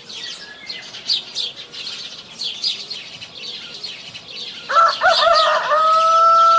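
Small birds chirping busily and repeatedly. About five seconds in, a rooster crows: a wavering start, then a long, steady held note that is the loudest sound.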